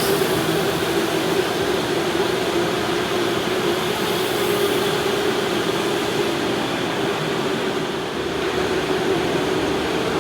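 Electric indoor go-kart running steadily, a constant motor hum over a wash of noise, with a slight dip in level about eight seconds in.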